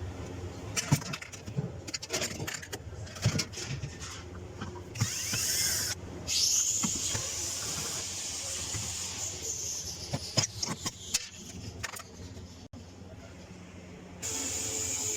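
Scattered clicks, knocks and rattles of parts being handled, over a steady low hum. A high-pitched whir rises and holds for about four seconds from about six seconds in, and starts again near the end.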